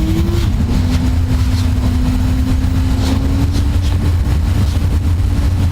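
A vehicle on the move: a steady low rumble with an engine note that drops in pitch about half a second in, then climbs slowly.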